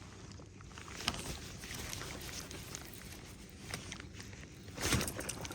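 Steady low wind and water noise around a fishing boat with a few light clicks, then a short splash near the end as a hooked bass jumps clear of the water and throws the topwater bait.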